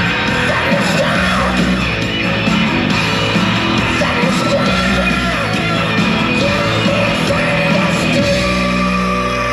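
Loud rock music with sung and yelled vocals.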